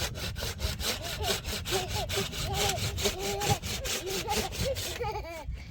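Wood being sawn by hand, in quick back-and-forth strokes at about five a second, stopping about five seconds in.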